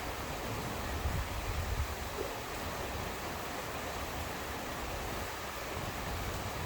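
Steady rain falling, an even hiss, with a low rumble underneath that is strongest in the first couple of seconds.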